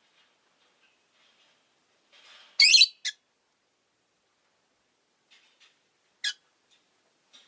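Rosy-faced lovebird giving short, sharp, high chirps: a loud call about two and a half seconds in with a quick second one right after, another single chirp about six seconds in, and a few faint softer calls between.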